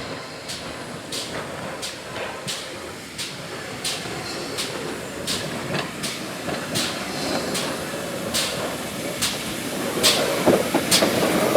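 Heritage railway train approaching, its wheels clicking over the rail joints in an even rhythm of about one click every 0.7 s over a steady running rumble that grows louder throughout.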